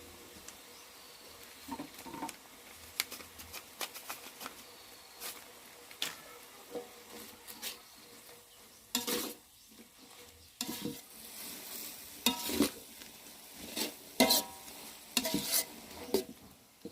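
A metal spatula scraping and clinking irregularly against a pan or wok while food sizzles in hot oil. A few of the knocks ring briefly, and they come more thickly in the second half.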